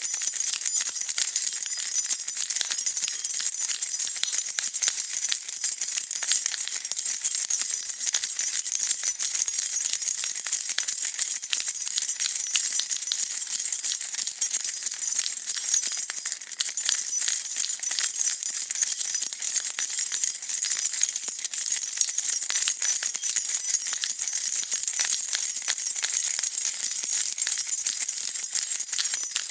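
A bunch of metal keys jingling continuously, shaken without pause: a dense, steady rattle of small bright clinks.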